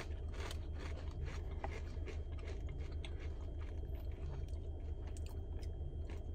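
People chewing crunchy tortilla chips, a quick run of small crisp crunches, over the steady low hum of a car's air conditioning.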